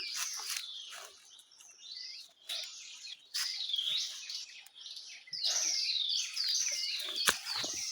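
Wild birds singing: repeated clear whistled phrases sliding up and down, louder in the second half, with a sharp click or two near the end.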